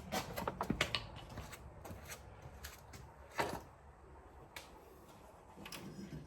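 Scattered light clicks and knocks of the blade belt and metal parts being handled as the belt is worked onto the mower deck's pulleys, a quick run of them in the first second and single knocks about three and a half and four and a half seconds in.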